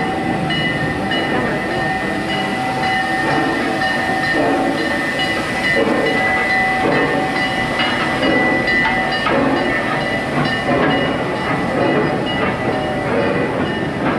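Park train standing at the station with its engine running: a steady mechanical rumble with a couple of held high tones that stop about nine seconds in.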